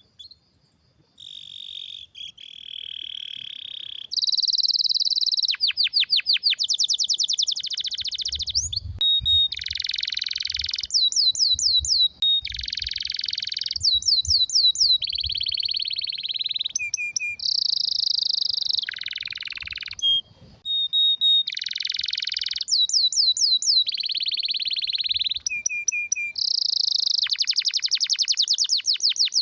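Domestic canary singing a long, continuous song: phrase after phrase of rapid trills and quickly repeated sweeping notes, with only brief pauses between phrases.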